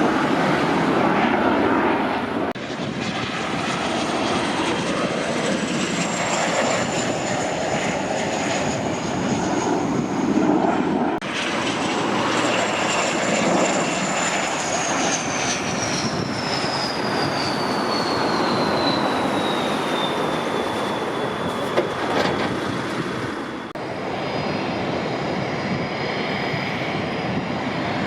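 Kawasaki T-4 jet trainers' twin turbofans running as they pass during touch-and-go landings: a loud rush of jet noise with a high whine that glides slowly down in pitch. The sound breaks off abruptly a few times, and about 24 s in it changes to another steady jet engine sound.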